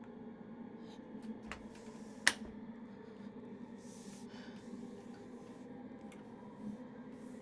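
Quiet room with a low steady hum. A single sharp click a little over two seconds in is the loudest sound, with a couple of softer clicks just before it. Soft breaths follow around the middle and near the end.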